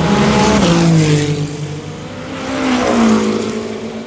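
Two Le Mans Hypercar prototypes race past one after another, about two seconds apart. Each engine note swells and then drops in pitch as the car goes by.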